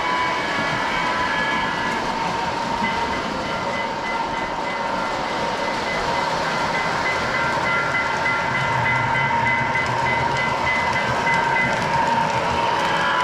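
Lionel O-gauge F3 diesel set with a long string of passenger cars running on tight O31 track: steady wheel and motor rumble with clickety-clack, under the B unit's electronic RailSounds diesel effects. A bell rings steadily through the middle.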